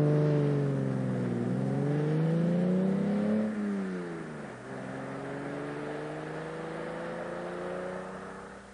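Mercedes-Benz 300 SL's fuel-injected straight-six pulling away: the revs climb in first gear, drop at a gear change about three and a half seconds in, then climb slowly again in the next gear before fading near the end.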